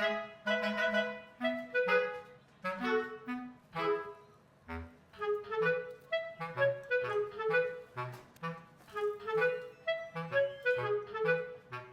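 Upbeat background music with a clarinet-like woodwind melody over a bouncy bass line.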